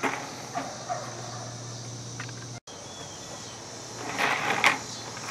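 A short, loud rattling animal call, most likely a bird's, about four seconds in, over a steady low hum.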